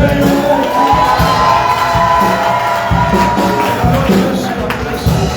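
Worship music with a tambourine and low drum beats, under the voices of a congregation cheering.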